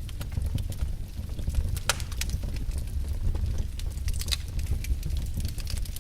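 Fire in a fireplace crackling, with irregular sharp pops several times a second over a steady low rumble.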